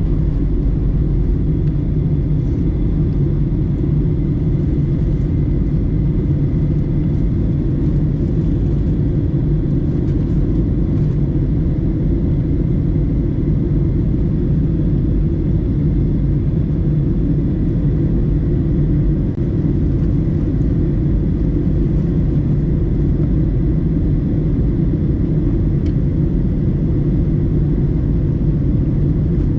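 Steady cabin noise inside a Boeing 737-900ER in flight: an unchanging deep roar of engines and airflow, with a faint high hum over it.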